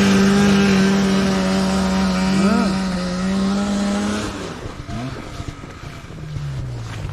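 Snowmobile engine held at high revs in a steady note, then falling back about four seconds in and settling to a lower idle.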